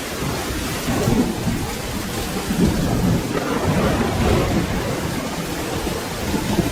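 Steady rain with a low, rolling rumble of thunder underneath it.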